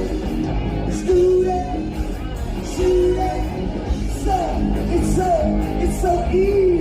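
Live rock band playing, with a singer's held and bending vocal lines over electric guitar, bass and drums.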